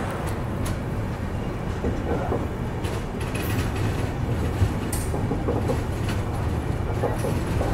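Express train rolling slowly out of a station: a steady rumble of wheels on the track, with a few sharp clicks spread through it as the wheels cross rail joints.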